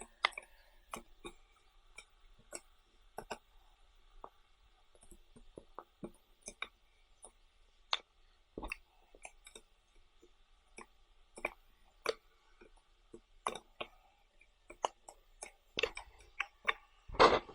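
Close-up eating sounds: irregular small clicks and taps from chewing and handling food, with a louder cluster of clicks near the end.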